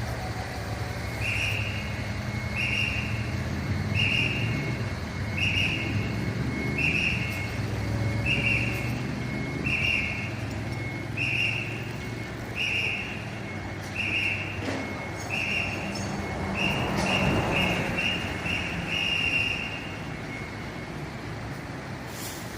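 Fire truck's electronic warning beeper sounding short high-pitched beeps about once every second and a half, coming quicker for a few beeps near the end, over a diesel engine running steadily.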